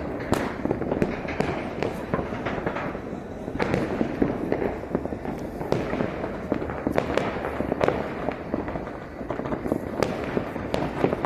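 Fireworks and firecrackers going off all around: many sharp bangs and cracks at irregular, close intervals over a continuous background of more distant bursts.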